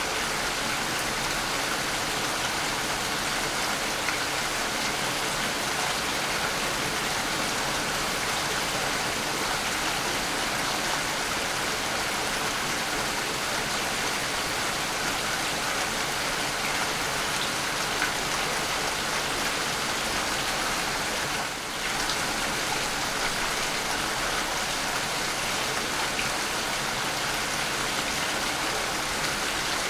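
Steady rain falling, a dense even hiss of drops that dips briefly about two-thirds of the way through.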